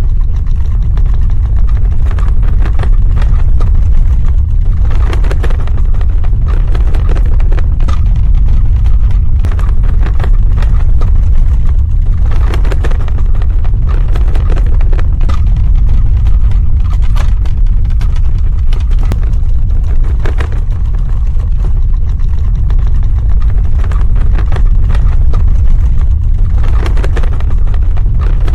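Earthquake sound effect: a deep, continuous ground rumble with crackling, rattling surges that swell about every seven or eight seconds.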